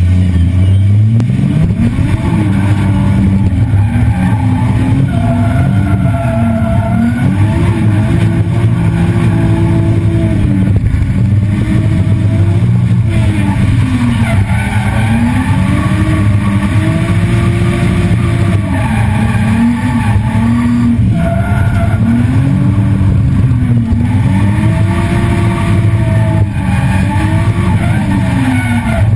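Engine of a 1JZ VVT-i inline-six-swapped Nissan 240SX drift car heard from inside the cabin, revving up and falling back again and again, every second or two, as the throttle is worked through the run.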